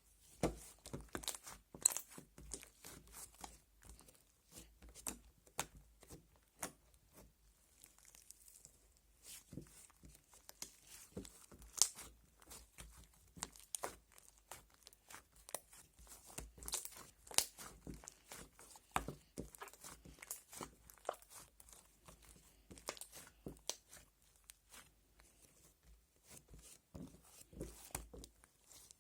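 Bubblegum slime being squeezed, stretched and pulled apart by hand: a steady stream of irregular sticky crackles, clicks and small pops.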